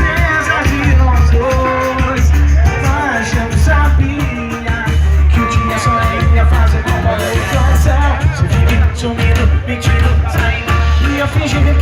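Live pagode band playing, with singing over a steady low bass beat about once a second.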